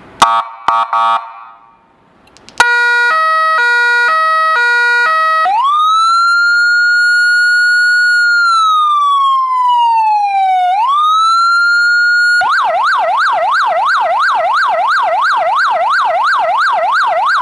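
Electronic siren played through a police motorcycle siren speaker, cycling through its tones: a few short blips, then a stepped tone switching pitch about twice a second, then a slow wail that rises, holds, falls and rises again, and from about twelve seconds in a fast yelp sweeping up and down about four times a second.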